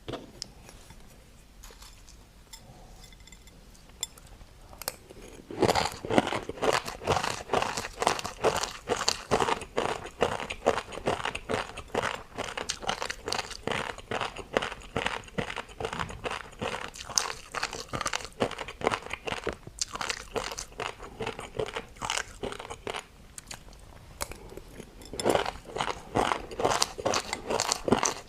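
Crunchy food being chewed close to the microphone: a fast, dense run of crisp crunches starting about five seconds in, a brief pause near the end, then more crunching.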